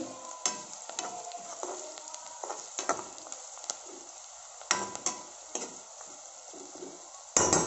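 Chopped onions sizzling in hot oil in a kadai while a metal spoon stirs them, with scattered scrapes and clinks of the spoon on the pan and one louder clatter near the end.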